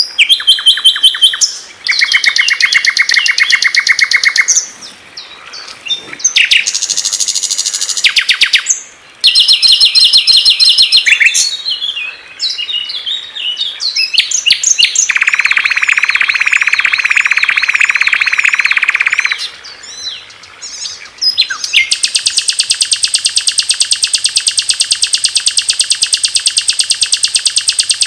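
Recorded songs of various small songbirds played one after another as a masteran tutor track: rapid high trills and chirps that change abruptly every few seconds, ending in a long, steady, very fast trill.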